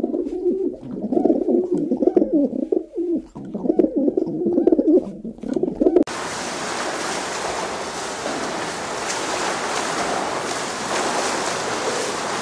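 Domestic pigeons cooing over one another in repeated low, wavering coos. About six seconds in, this cuts to a steady rush of splashing water as koi crowd and churn at the surface.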